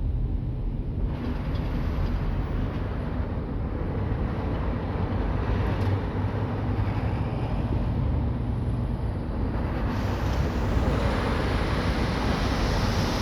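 Steady low rumble of street vehicles with wind buffeting the microphone. The vehicle noise swells from about ten seconds in as something approaches.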